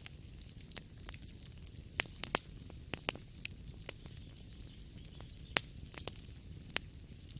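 Wood fire crackling in a fireplace: irregular sharp pops and snaps, the loudest about two seconds in and again past five seconds, over a low steady rumble of the burning.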